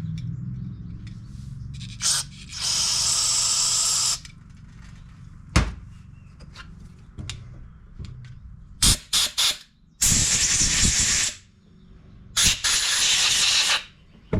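Three hissing blasts of spray, each about a second or so long, blown through a lawn mower carburetor's jets and passages to clean them, with short clicks and knocks of the parts being handled in between.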